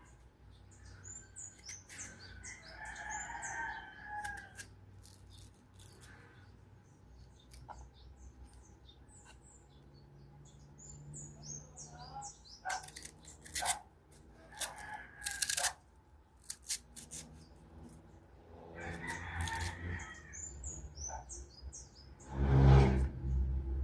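Knife scraping and slicing through a crunchy fresh mango in a few short strokes, with birds chirping in the background. Near the end there is a louder, lower animal call.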